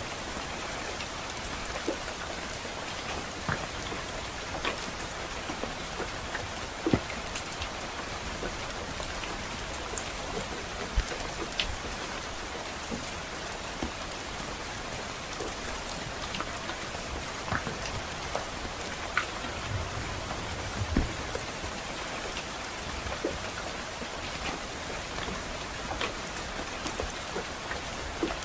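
Steady rain falling, with scattered sharp pops and crackles from a wood fire in a fireplace mixed in.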